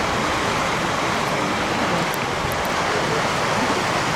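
Steady rushing noise of a fast-flowing creek.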